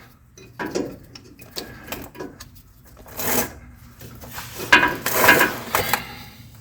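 Metal parts being handled and fitted: scattered clicks and knocks, then a burst of clattering about five seconds in, as a bolt is worked into a suspension bracket.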